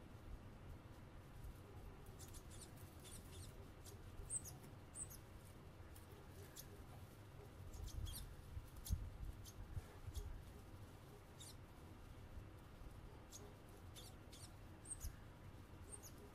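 Tits giving short, thin, high-pitched calls and ticks, scattered irregularly, over a faint low rumble.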